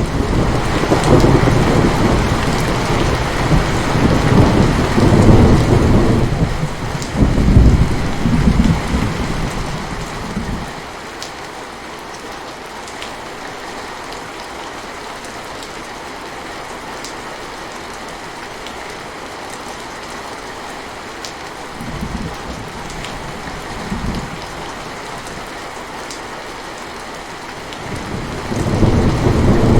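Steady rain falling, with a long rolling rumble of thunder over the first ten seconds or so. Two short, quieter rumbles come later, and another roll of thunder builds near the end.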